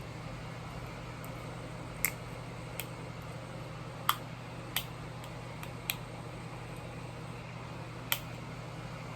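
About six sharp clicks and taps at uneven intervals, from containers and utensils being handled while vinegar and red food coloring are mixed, over a steady low hum.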